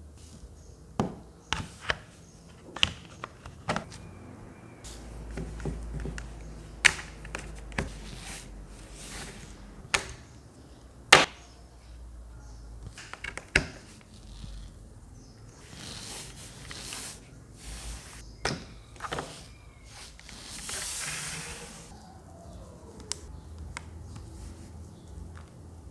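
Small plastic humidifier being handled: a string of sharp, separate clicks and taps of plastic parts, with two short stretches of hiss near the middle and about two-thirds through.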